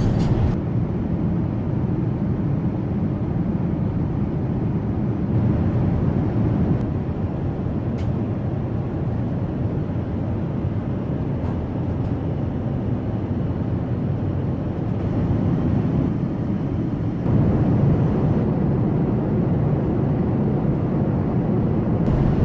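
Steady low rumble of airliner cabin noise aboard an Airbus A380. It gets a little louder and fuller about seventeen seconds in.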